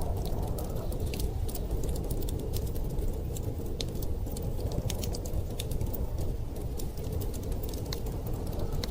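Wood fire crackling with frequent, irregular sharp pops over a steady low rumble of storm wind.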